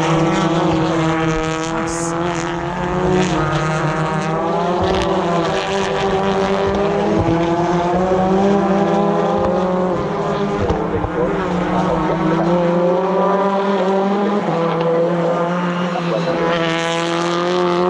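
British Touring Car Championship cars, with turbocharged four-cylinder hybrid engines, running at racing speed. Several engine notes overlap, their pitch rising and falling as the cars pass.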